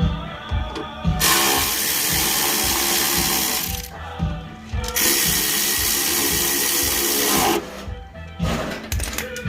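A power drill runs twice for two to three seconds each, tightening up the door fasteners. Background music with a steady beat plays throughout.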